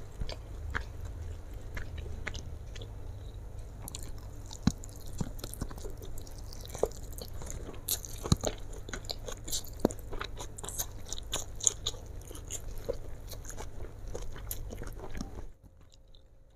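Close-miked wet chewing of a mouthful of fried flat rice noodles, with many small mouth clicks and lip smacks over a low steady hum. The sound drops away about a second before the end.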